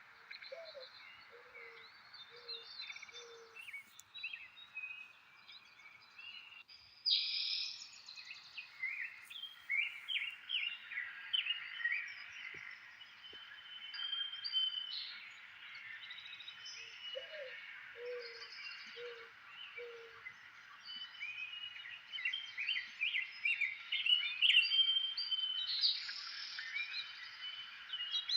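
Several wild birds singing and chirping over a steady faint hiss, with a lower call of four short notes heard twice, near the start and again about halfway through.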